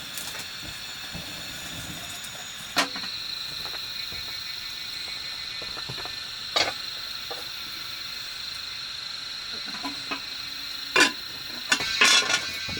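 Steady high-pitched insect drone, with a few sharp knocks breaking in; the loudest come as a cluster near the end.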